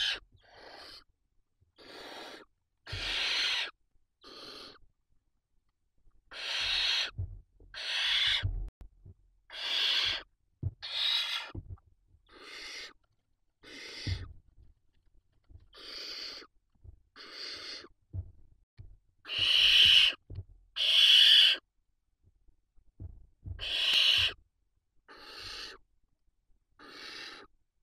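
Barn owl chicks in the nest giving hissing, snore-like begging calls. They come as short bursts about once a second, with pauses, and the loudest pair is about twenty seconds in. Soft low thumps sound under the calls.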